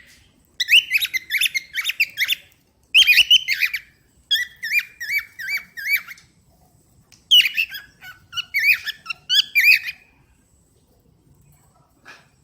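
Cockatiel chattering and whistling in quick runs of short, repeated chirpy notes, in about five phrases with short pauses between.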